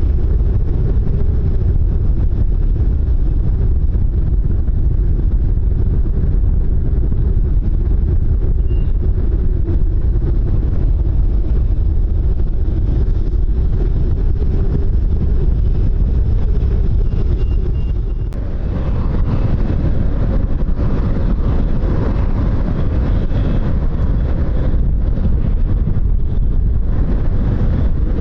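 Strong wind buffeting the microphone, a steady low rumble. A little past two-thirds of the way through the sound changes abruptly and a broader, higher hiss joins the rumble.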